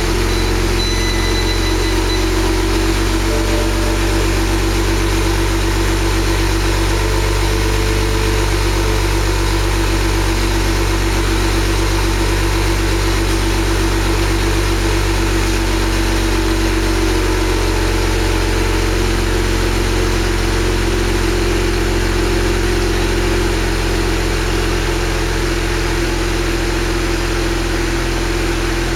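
2009 BMW 135i's N54 twin-turbo straight-six, fitted with AR catless downpipes and the stock exhaust, idling steadily just after starting. The idle settles a little lower past the middle and again near the end.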